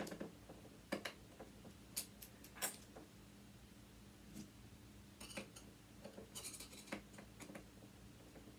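Faint, irregular small metallic clicks and taps of a screwdriver working at a small screw inside a sewing machine motor, a few of them in quick clusters.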